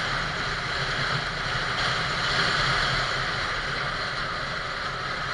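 Motorcycle riding along: a steady rush of wind and road noise with a low engine hum under it.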